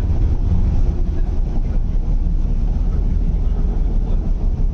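Cabin noise of an MTR East Rail Line R-train electric multiple unit on the move: a steady, loud low rumble from the running gear and traction equipment, heard from inside the car.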